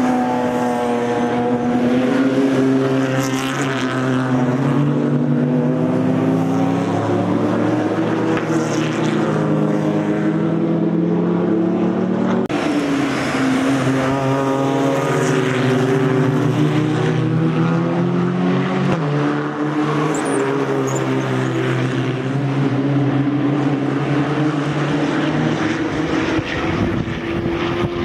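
GT3 race car engines at full throttle through open exhausts, one car after another, their pitch climbing and dropping through gear changes and pass-bys.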